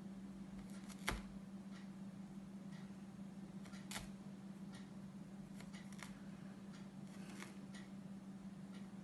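Faint scratching and tapping of a pen drawing on paper, with a sharper click about a second in and another about four seconds in, over a steady low hum.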